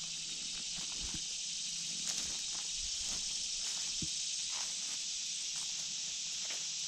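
Footsteps scuffing and crunching irregularly over rough ground. Under them runs a steady, high, unbroken hiss of an insect chorus.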